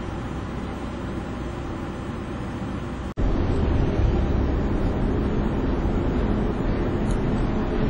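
Steady traffic and engine noise from a moving vehicle on a busy highway, a rumbling haze with no distinct events. About three seconds in it cuts out for a split second and comes back louder.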